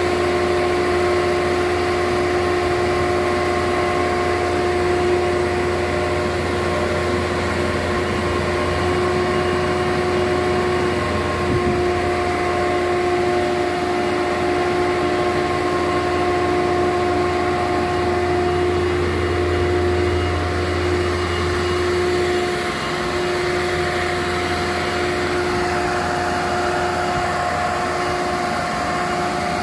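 An engine running steadily at a constant speed, with a steady whine over its low hum; it drops slightly in level about two-thirds of the way through.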